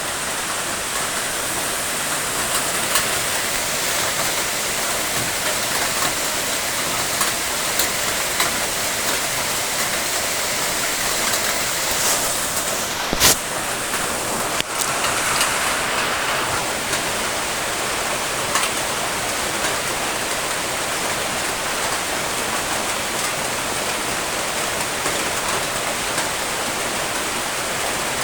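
Steady rain falling, with scattered faint drop ticks and one sharp click a little under halfway through.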